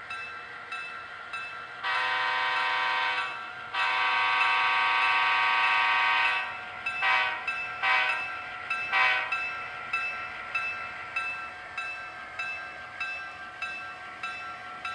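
Model diesel locomotive's DCC sound decoder ringing its bell at about two strikes a second, with the locomotive horn sounding two long blasts and then three short toots.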